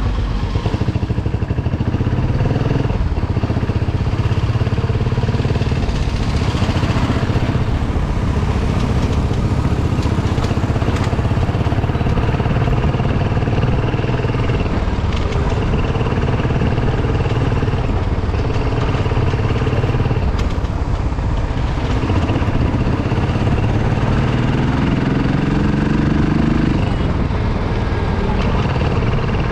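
Motorcycle engine running steadily while riding along a dirt road. Late on, it rises in pitch for several seconds as the bike accelerates, then drops back.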